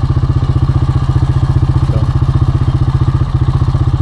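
ATV engine running steadily at low, unchanging revs, with an even, rapid chug from the exhaust.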